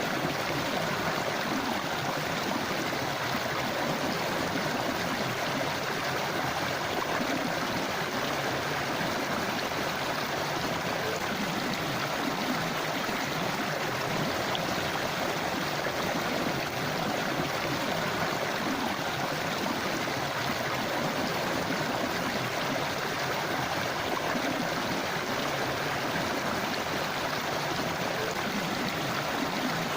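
Forest river flowing over rocks: a steady, even rush of running water with gurgling.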